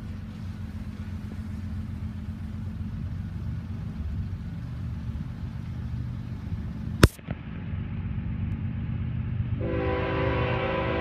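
Approaching train: a steady low rumble from the locomotive, with a sharp click about seven seconds in. About nine and a half seconds in, the locomotive's air horn starts sounding, a held chord of several notes.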